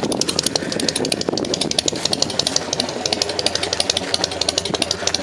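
An engine running steadily with a rapid, even ticking, about nine ticks a second.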